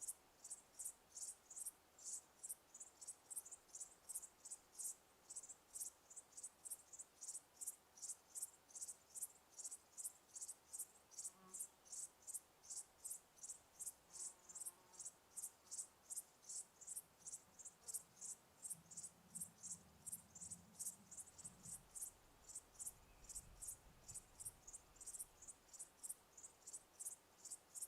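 Crickets chirping in a steady, even rhythm of high-pitched chirps, about three a second.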